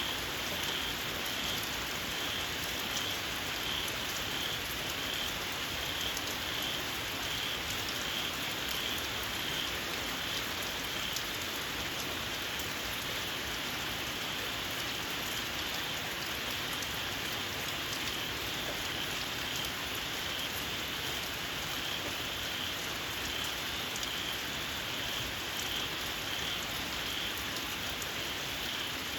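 Steady rain falling, with fine drop patter, over a chorus of small frogs calling in a shrill, evenly pulsing trill of about one and a half pulses a second.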